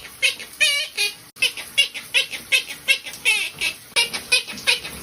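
Pet parrot chirping and chattering: a quick, even run of short high chirps, about four a second, with warbling whistles about a second in and again past three seconds.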